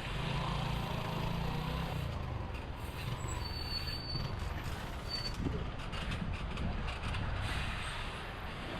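Wind rushing over the microphone and road traffic noise while cycling. A large vehicle's engine hums through the first two seconds, and a short high squeal comes about halfway through.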